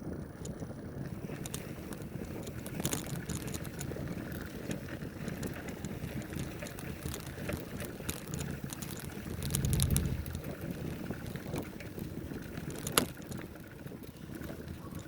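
A bicycle being ridden on a dirt trail: the tyres rumble over the ground while the frame and parts give off many small rattles and clicks, with one sharp knock about 13 seconds in. Wind buffets the microphone.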